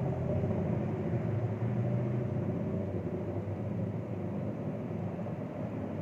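Steady low rumble of motor traffic, with engine tones that drift slowly up and down in pitch.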